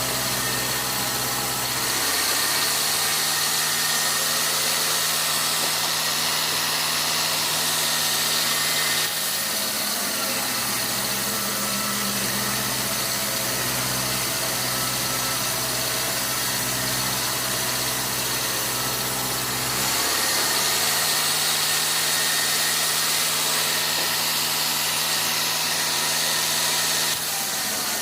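Sawmill machinery engine running steadily under a constant hiss. Its speed steps up about two seconds in, drops back about nine seconds in, rises again about twenty seconds in and drops back just before the end.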